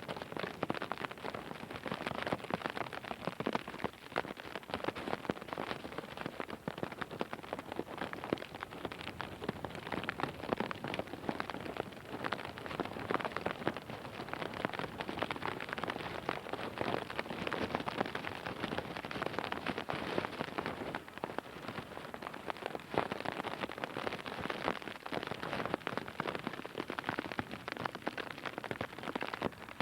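Heavy rain falling steadily, a dense stream of drops striking a hard surface close to the microphone.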